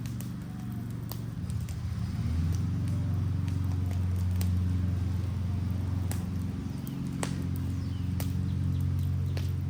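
Wood fire burning a wooden Adirondack chair, crackling with sharp pops every second or so over a steady low rumble.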